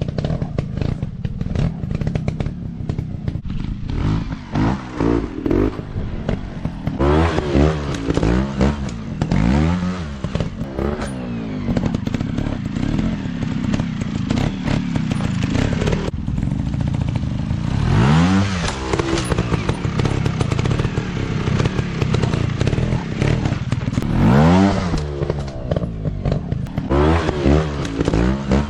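Small single-cylinder trail bikes (Yamaha WR155, Kawasaki KLX) being ridden off-road, their engines revving up and dropping back again and again, with short knocks and clattering over the rumble.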